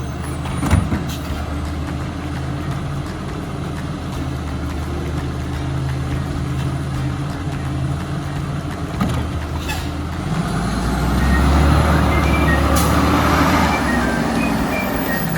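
Side-loader garbage truck's diesel engine running steadily while its automated arm handles a recycling bin, with a sharp knock about a second in. About ten seconds in the engine runs up louder for a few seconds before settling again. The arm itself is really quiet, barely heard moving.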